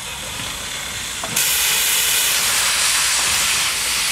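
Steam hissing from a narrow-gauge steam locomotive. It jumps suddenly louder about a second and a half in and stays loud.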